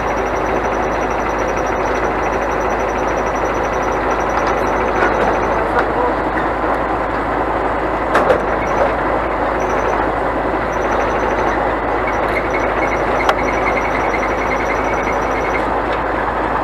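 Scania crane truck driving: steady engine and road noise, with a faint, rapid, high-pitched beeping that comes and goes.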